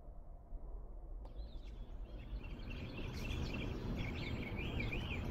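A small bird singing, repeating short high chirping phrases, which begin about a second in, over a steady low outdoor rumble.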